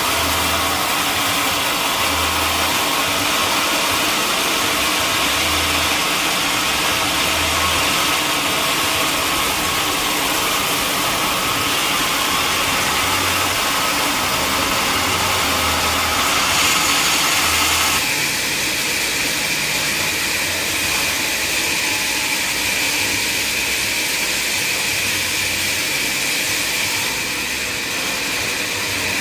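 Sawmill machinery running steadily with a dense mechanical noise and a slow low pulse. About two-thirds of the way through the tone shifts, settling into a steady high whine over the noise.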